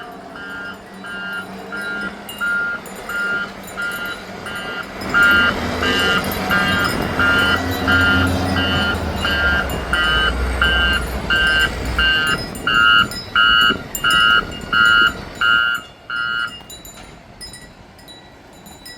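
Reversing alarm of an earth-moving machine beeping steadily, a little under two beeps a second, over the low rumble of its diesel engine, which swells in the middle; the beeping stops near the end.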